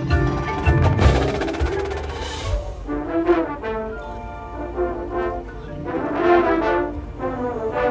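Drum and bugle corps brass and percussion playing: the drums hit hard for the first couple of seconds, then the brass section swells in repeated loud chords.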